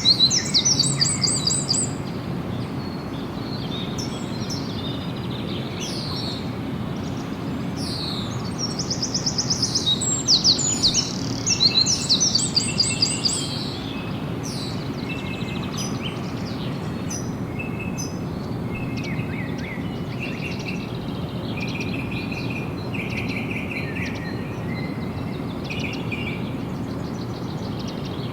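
Wild birds singing: loud, rapid trilled song phrases near the start and again in the middle, then softer chirps and short notes from other birds, over a steady low background noise.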